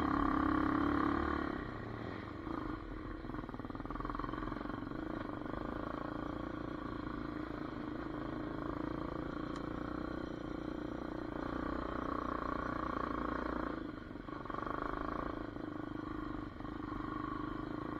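Hawk 250 DLX dirt bike's single-cylinder four-stroke engine running steadily while riding, loudest in the first second and a half and easing off briefly about 14 seconds in.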